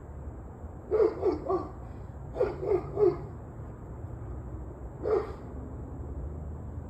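A dog barking: a quick run of three barks, another three a second later, then a single bark, over a low steady hum.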